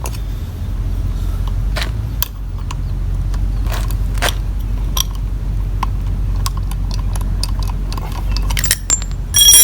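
Light metallic clicks and clinks as a stuck brake caliper slide pin is tugged and worked out of its bracket, with a brighter ringing clink near the end, over a steady low hum.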